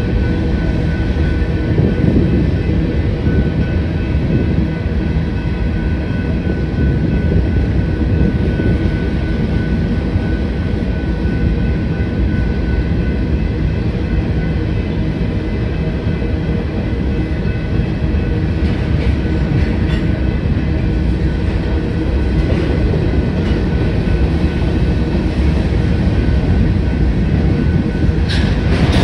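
Freight train of covered hopper cars rolling past at a grade crossing: a steady, loud rumble and clatter of steel wheels on the rails. A thin steady high tone runs above it, and a few brief sharp sounds come about two-thirds through and again near the end.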